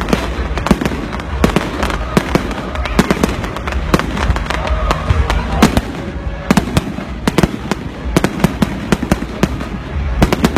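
Fireworks going off in quick, irregular succession: many sharp bangs, several a second, over a continuous low rumble of further explosions.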